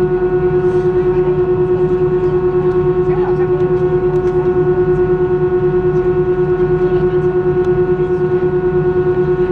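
Airbus A320 cabin noise with the engines at idle: a loud, steady, pitched hum over a lower drone that pulses at a fast, even rate.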